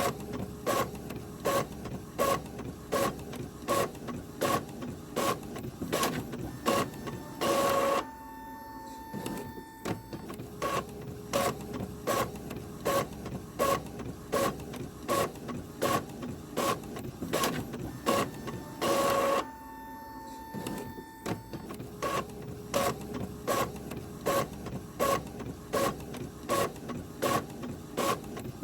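Printer running through a print job: a regular mechanical clicking about twice a second. It is broken twice by a brief louder burst, each followed by a quieter stretch of a couple of seconds with a faint steady hum before the clicking resumes.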